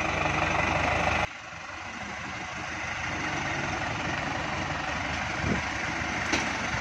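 Heavy diesel engine running steadily. The sound drops off abruptly a little over a second in, then a quieter engine sound rises slowly and holds steady.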